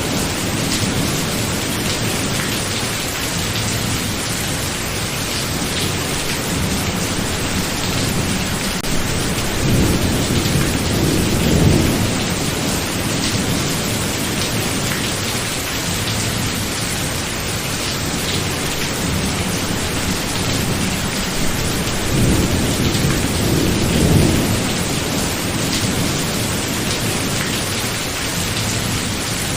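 Steady heavy rain with low rolling thunder that swells and fades twice, about a third of the way through and again about two-thirds in.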